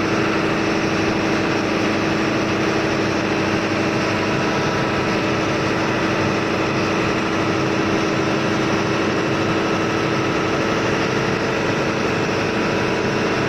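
Steady drone of running diesel machinery in a ship's engine room, an unbroken hum with several constant tones over a wide noise, without changes or knocks.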